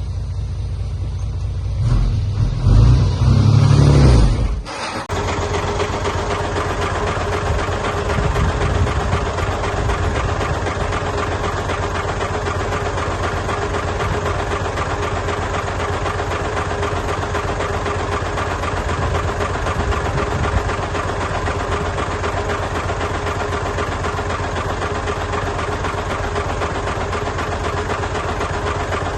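Heavy earthmoving machine's engine running, with a louder low rumble for the first few seconds that breaks off abruptly about five seconds in, then a steady engine drone with a fast low pulse and a steady hum.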